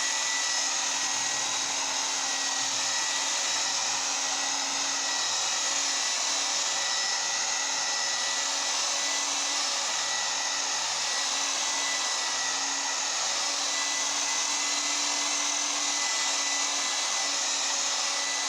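Electric rotary buffer running steadily, its pad polishing sanded clear coat on a car body.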